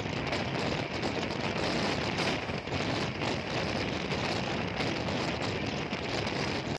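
Steady rushing rumble of a train running on the rails, heard from aboard: wheel noise and wind, with no distinct clacks or horn.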